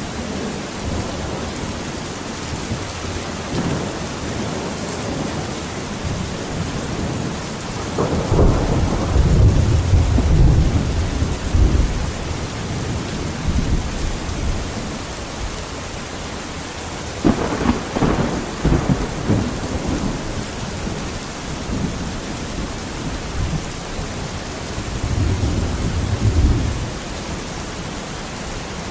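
Steady rain with thunder rumbling three times: a long low rumble about a third of the way in, a sharper clap a little past the middle that rolls on for a few seconds, and a softer rumble near the end.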